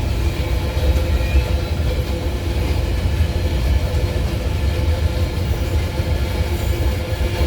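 Empty iron-ore train rolling past, its wagons making a steady low rumble with a faint steady tone above it.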